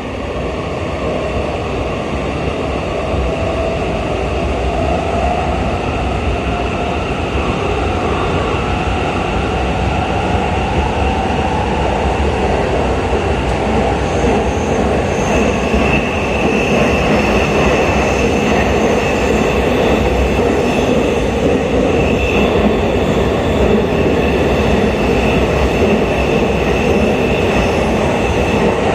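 Running noise of a JR East E233-5000 series electric train heard from inside the carriage in a tunnel: a steady rumble of wheels and motors that grows slowly louder, with a high, steady whine coming in about halfway through.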